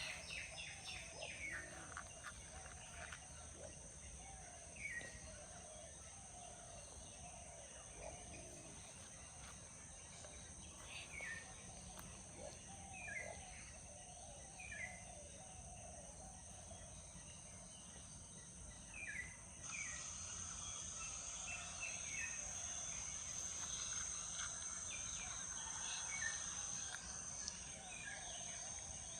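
Outdoor nature ambience: birds calling in short, falling chirps over a steady, high-pitched insect drone. The drone grows suddenly louder about two-thirds of the way through.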